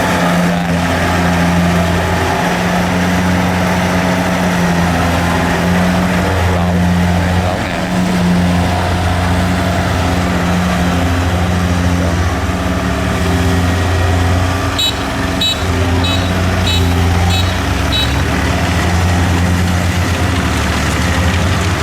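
Kubota DC70 combine harvester's diesel engine running steadily, its drone swelling and easing a little. A run of short, high-pitched chirps sounds about two-thirds of the way through.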